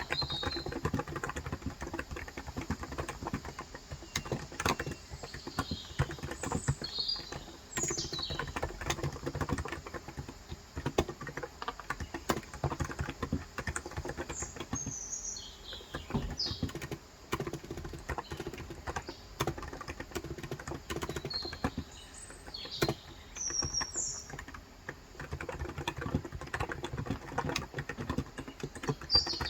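Steady, continuous typing on a COX Endeavor electro-capacitive tenkeyless keyboard with 35 g switches, the soft keystrokes coming in quick runs. Small birds chirp in short, scattered calls in the background.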